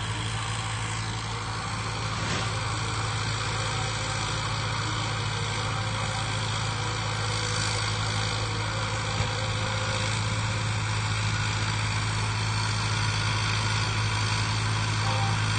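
Sonalika tractor's diesel engine running steadily, a constant low drone that grows gradually louder.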